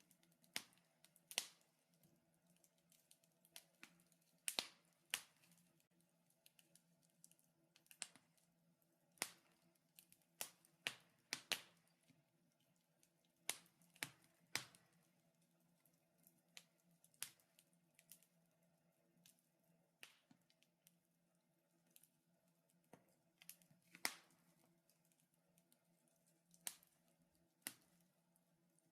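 Wood fire crackling in a fireplace: sharp, irregular pops and snaps, some louder than others, over a faint steady hum.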